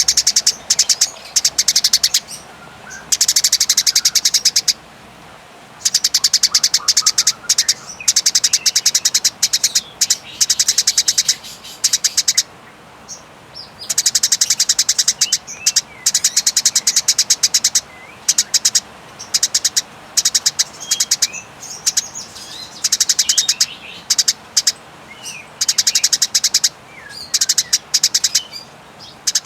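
Eurasian tree sparrow giving the agitated, aggressive chatter of a bird in fighting mode. It comes as long, fast-rattling runs of high, dry notes, each burst lasting one to three seconds, with a few softer chirps in the short gaps.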